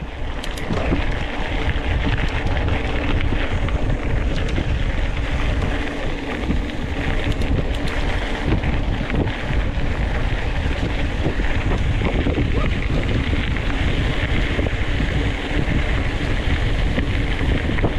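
Steady wind rush buffeting the microphone while riding.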